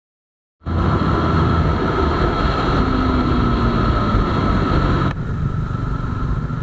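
Bajaj Dominar 250's single-cylinder engine running hard at high speed, heard under heavy wind noise rushing over the microphone. It cuts in abruptly after a short silence, and the sound changes suddenly, with less wind hiss, about five seconds in.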